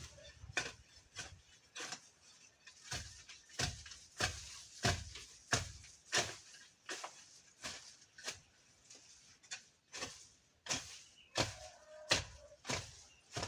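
Weeds being cleared by hand: a hand tool striking into brush and soil in a steady rhythm, about three strikes every two seconds, some with a dull thud.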